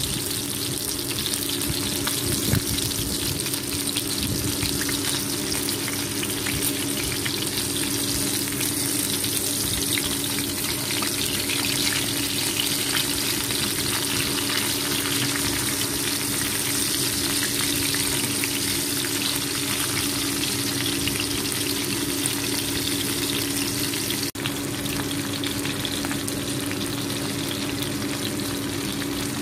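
Batter-coated fish sizzling steadily as they shallow-fry in hot oil in a pan, a continuous crackling hiss.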